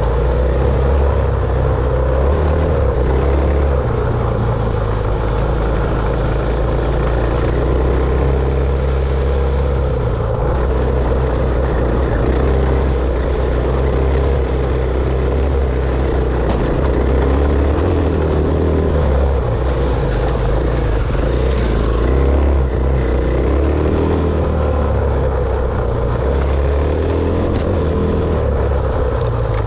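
Dirt bike engine running under way on a trail ride, its pitch shifting up and down every few seconds with the throttle.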